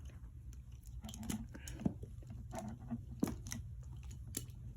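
Faint clicks and rustles of the battery charger's clamps and cable being handled, with a few sharper ticks, over a steady low hum.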